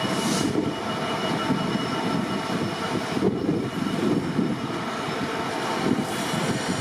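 Train running through a railway station: a steady rail rumble with faint, steady high tones over it.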